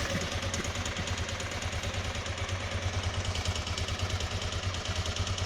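Honda NX250's single-cylinder four-stroke engine idling with a fast, even knocking clatter, which the owner takes for crankshaft failure or maybe a worn cam chain.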